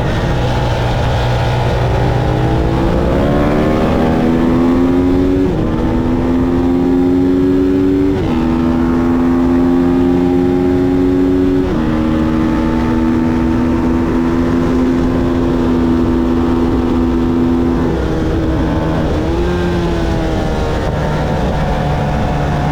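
Motorcycle engine accelerating hard through the gears, its pitch climbing and then stepping down at upshifts about five, eight and twelve seconds in. It holds a steady high note, then drops as the throttle closes near the end, rises briefly and settles lower.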